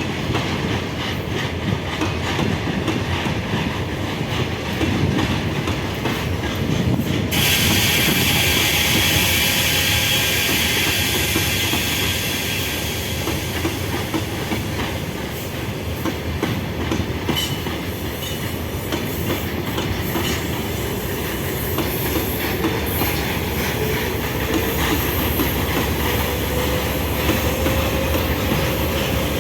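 A train running along the track, its wheels clattering over the rail joints. About seven seconds in a steady hiss cuts in, and near the end a faint tone slowly rises in pitch.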